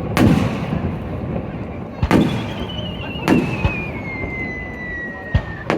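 Aerial fireworks going off in a series of sharp booms, six in a little under six seconds, over a steady background of crowd noise. A thin whistle slides down in pitch from about two seconds in and stops just before the last boom.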